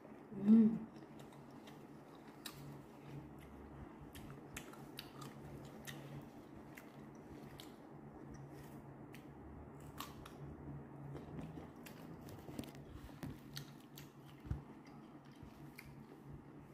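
Chewing of crunchy mango slices: soft mouth sounds with scattered small clicks. A short hummed "mmm" about half a second in.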